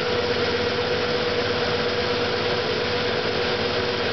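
Ford F-100 pickup's engine idling steadily at a low idle after a cold-weather restart.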